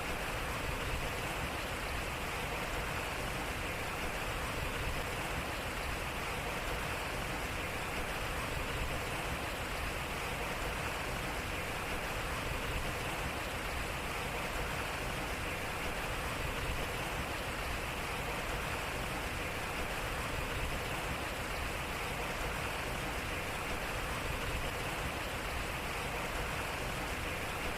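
Water running and splashing steadily at a turning water wheel, an even, unbroken rush.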